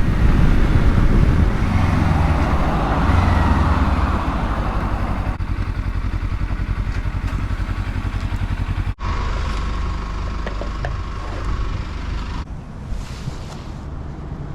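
Kawasaki Versys-X 300 motorcycle's parallel-twin engine running with wind noise as the bike rides in, then idling with an even pulse from about five seconds in. After an abrupt cut near nine seconds it is quieter, with a steady high whine for a few seconds.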